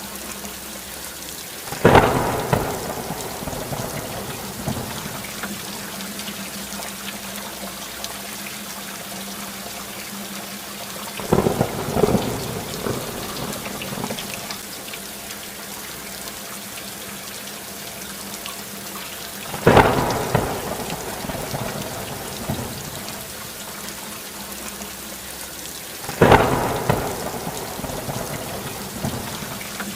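Steady rainfall with four claps of thunder, each starting suddenly and rumbling away over a couple of seconds.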